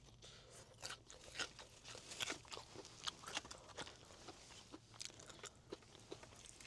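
Crispy Korean fried chicken being bitten and chewed close to the microphone: faint, irregular crunching crackles, several a second.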